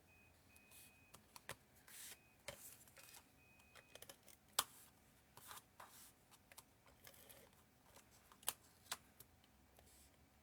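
Faint handling of cardstock and paper pieces: scattered light taps, ticks and rustles as pieces are positioned and pressed down, the sharpest tick about halfway through.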